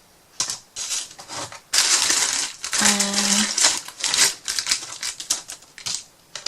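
Small wooden craft pieces (mini wooden houses) clicking and clattering as they are handled and set down on a table, in a quick irregular series of knocks with a denser stretch of rattling and rustling in the middle.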